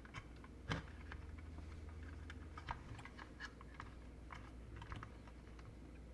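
Light, scattered clicks and taps of small parts being handled during an electronics assembly, with one sharper knock about a second in.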